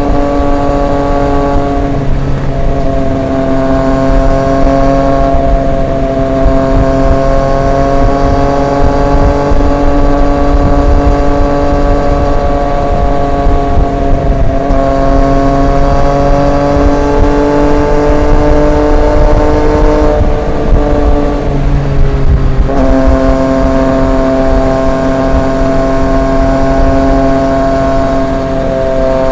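Triumph Street Triple 765 RX's three-cylinder engine through an SC Project S1 exhaust, pulling at steady revs under way. The note drifts up and down and breaks briefly about two seconds in and again near fourteen seconds. Around twenty to twenty-three seconds in it climbs, then drops to a lower pitch, as on a gear change.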